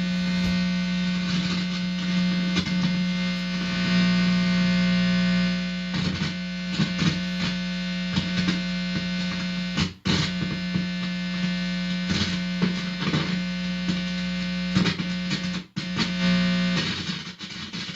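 A guitar amplifier gives out a loud, steady buzzing hum while the bare tip of its instrument cable is held against a person's forehead, the body picking up mains hum. Crackles and scratchy clicks come as the plug is handled, and the hum cuts out briefly twice.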